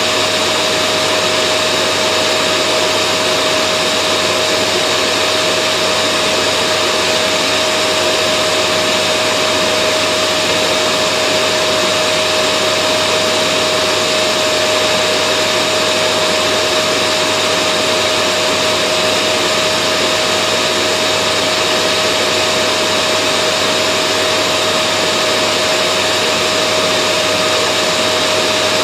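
Vacuum cleaner motor running steadily, an unbroken whine with one strong high hum, played as continuous white noise to soothe babies to sleep.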